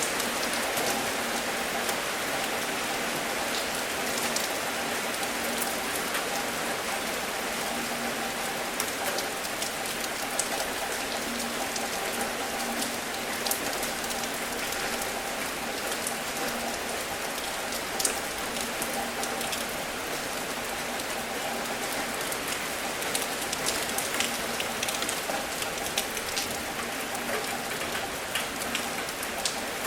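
Steady rainfall, an even hiss scattered with many sharp ticks of individual drops striking.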